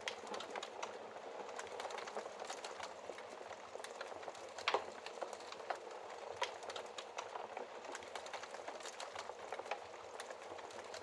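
Wood fire burning in a fireplace: a steady soft hiss with constant small crackles and snaps, and a louder pop about halfway through.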